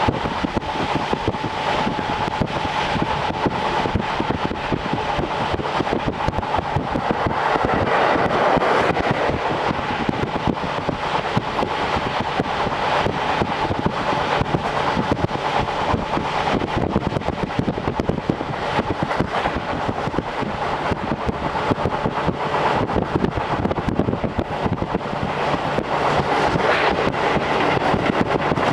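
JR Hokkaido Series 711 electric train running at speed, heard from inside a car with the window open: a steady rumble and rush of wheels on rail and air. A faint steady whine fades out after about eight seconds.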